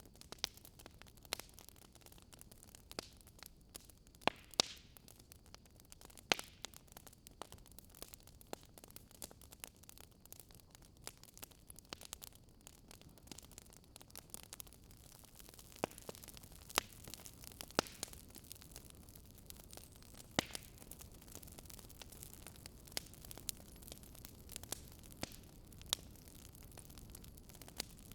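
Wood fire crackling: irregular sharp pops and snaps over a faint steady hiss, with a handful of louder pops scattered through.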